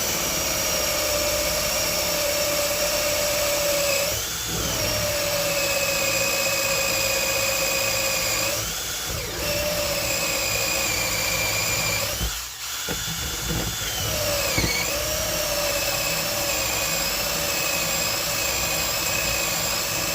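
Electric drill boring into wood with a 7/8-inch Forstner bit, the motor whining steadily. Its pitch sags briefly several times as the bit bites under load, and it nearly stops for a moment about two-thirds of the way through.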